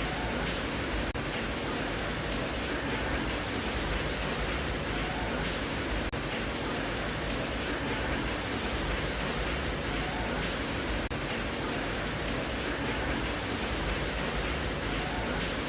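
Steady rain, an even hiss with no single drops standing out, with a brief dip in level about every five seconds.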